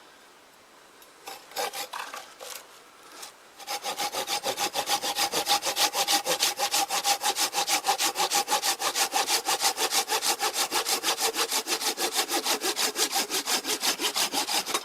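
A Husqvarna hand saw cutting through dead wood. A few hesitant starting strokes lead into steady, fast back-and-forth sawing from about four seconds in, at roughly five strokes a second, with the blade ringing through it.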